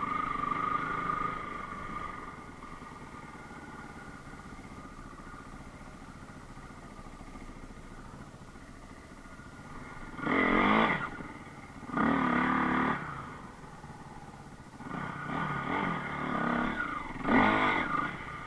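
Enduro motorcycle engine running, dropping to a low idle-like drone for several seconds, then revved hard in four short surges in the second half.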